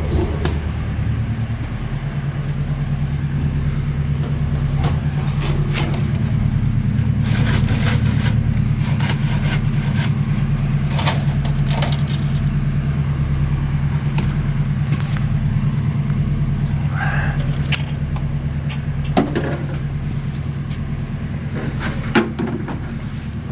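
Vertical baler's hydraulic power unit running steadily with a low hum as the ram is raised, the hum strengthening about a second in. Scattered sharp clicks and cracks sound over it.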